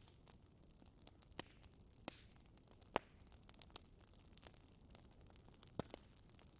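Wood fire crackling in a fireplace: faint, irregular pops and snaps over a soft hiss, the sharpest snap about three seconds in.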